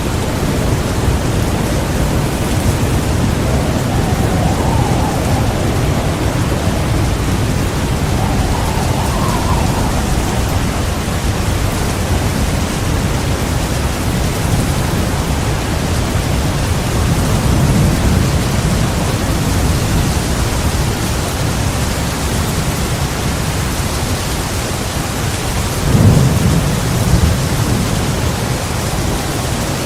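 Heavy rain pouring steadily through a thunderstorm, with low thunder rolling in and out and a sharp, louder clap of thunder near the end, followed by a second rumble.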